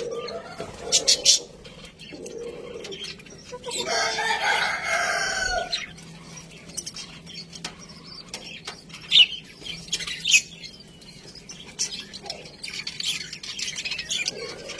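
Budgerigars chirping and chattering: a few sharp chirps about a second in, a longer warbling chatter around four seconds in, then scattered chirps and more chatter near the end.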